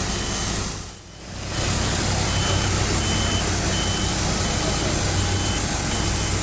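Engines of sawmills and log-handling equipment running steadily, with a machine's reversing alarm beeping repeatedly. The whole sound drops out briefly about a second in.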